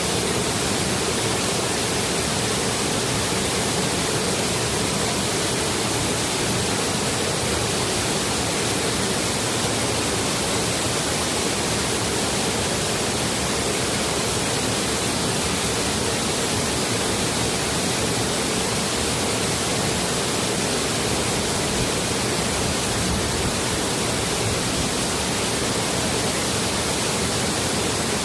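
Forest stream pouring over a small waterfall: steady, even rush of falling water with no changes.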